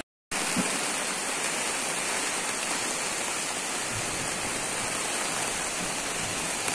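Steady rain falling, an even hiss that starts a moment in after a brief cut-out.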